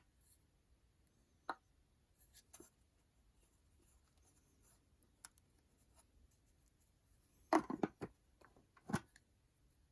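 Scattered light clicks and taps of objects being handled, with a quick cluster of knocks about three-quarters of the way through and one more a second later; no motor is running.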